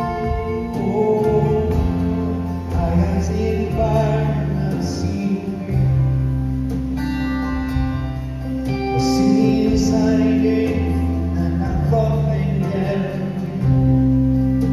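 Live band performance of a slow folk-rock song, with guitar, bass and singing.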